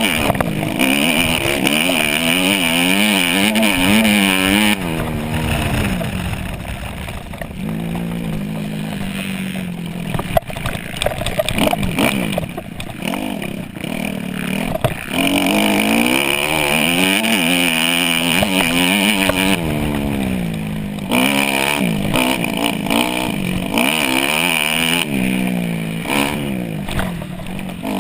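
Dirt bike engine revving up and down over and over as the rider accelerates and backs off through the gears, its pitch climbing and dropping every second or so.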